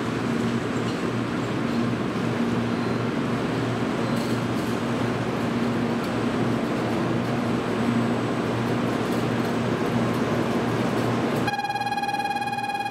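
Steady hum and noise of an N700-series Shinkansen train standing at a station platform. About a second and a half before the end, an electronic platform departure bell starts ringing, a steady high tone.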